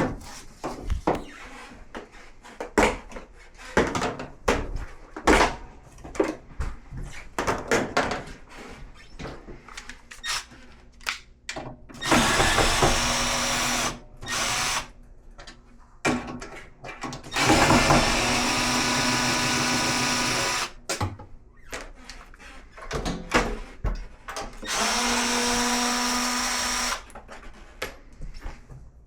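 About twelve seconds of clicks and knocks from tools and parts being handled, then a power drill/driver running in several bursts of one to three seconds, typical of screws being driven in or out of the washer's cabinet.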